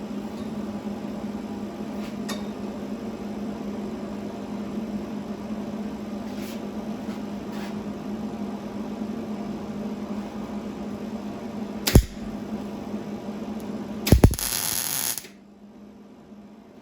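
Steady shop hum, a sharp metallic click, then one brief burst of welding arc crackle about a second long near the end as the washer is welded onto the engine mount.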